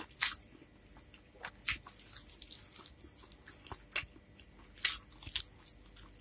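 Close-miked mouth sounds of chewing spicy Korean fried noodles with white bread: irregular clicks and smacks, several a second.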